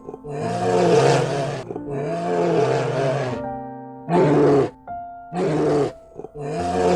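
Bear roaring and growling in five calls: two long ones, two short ones, then another long one. Steady background music plays under it.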